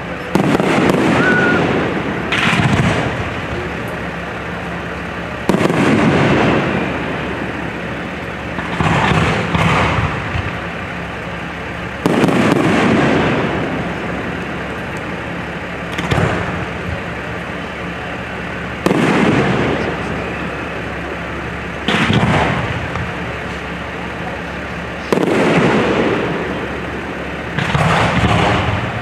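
Aerial fireworks shells bursting one after another, roughly every three seconds. Each burst is a sudden loud bang followed by an echoing rumble that fades away, with a few bursts coming in quick pairs.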